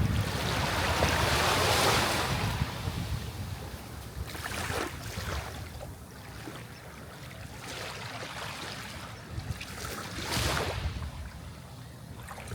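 Sea waves breaking and washing on a shore: a big surge in the first two seconds that slowly fades, then smaller waves breaking about four and a half and ten seconds in.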